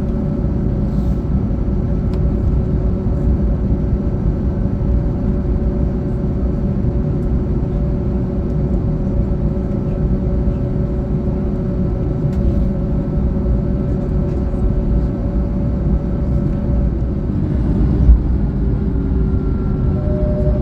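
Steady cabin noise of an Airbus A321neo airliner: a low rumble with a few steady hums. A single knock sounds near the end.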